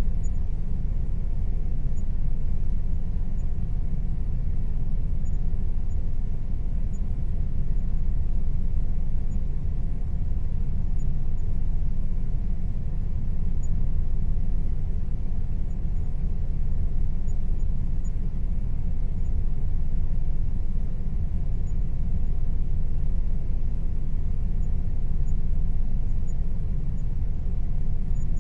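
Air conditioner running steadily: a constant low rumble with a few faint steady tones above it.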